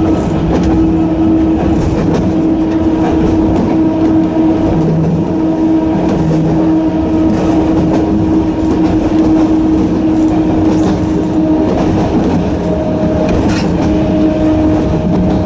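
Sangi Railway Hokusei Line narrow-gauge (762 mm) electric train running at steady speed: the whine of its nose-suspended traction motors holds one even pitch over the loud rumble of the running train.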